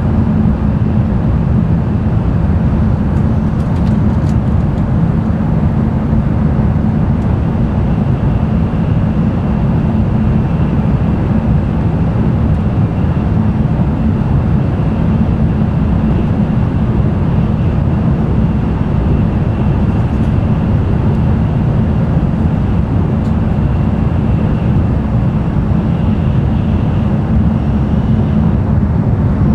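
Cabin running noise of an N700-series Tokaido Shinkansen train at speed: a steady, even rumble with a faint thin high tone above it.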